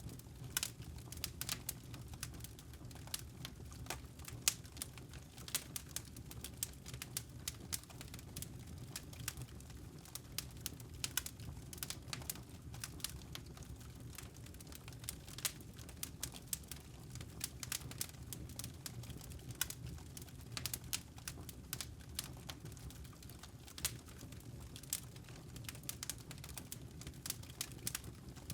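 Campfire with burning logs crackling: a steady low rumble with irregular sharp pops and snaps.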